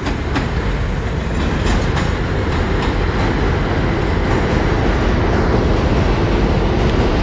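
R68 subway car running along the track: a steady rumble with a few faint clicks from the wheels.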